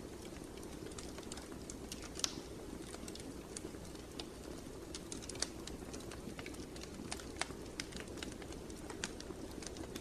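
Wood fire crackling: a steady low rush of the flames with irregular sharp pops and snaps, a few of them louder.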